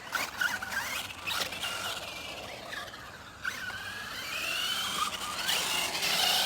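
Electric RC cars' motors whining, the pitch gliding up and down as they speed up and slow down, with a few sharp knocks in the first second and a half and a steep rising whine near the end.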